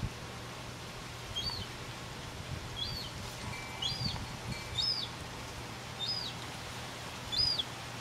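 Young gull chick peeping: short, high calls, each rising and then falling in pitch, repeated about once a second.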